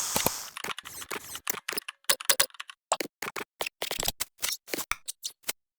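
Rapid, irregular small clicks and taps of hard objects, stopping about five and a half seconds in.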